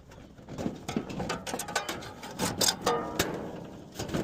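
Irregular metallic clicks, knocks and light scraping from hands working the package unit's sheet-metal parts, loudest around the middle.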